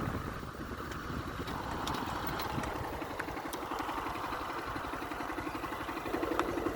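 Motorcycle engine idling or running at low revs, with an even, rapid pulse of firing strokes.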